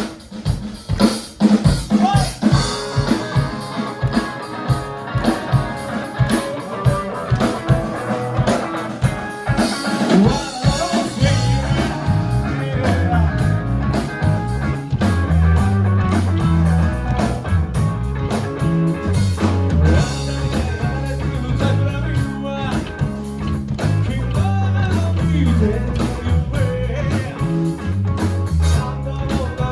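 Live rock band playing an encore song: drums and a singing voice to start, then bass and the full band come in about eleven seconds in with a steady beat.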